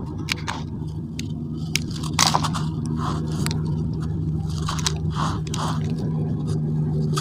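Semi-gritty sand cement crumbling and crunching in a silver metal container, in irregular gritty crackles and crunches, with a steady low hum underneath.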